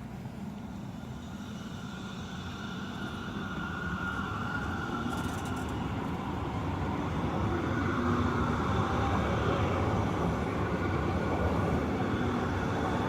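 Frankfurt U-Bahn train running on its rails, a pitched motor whine over a low rumble, growing steadily louder for the first eight seconds or so and then holding.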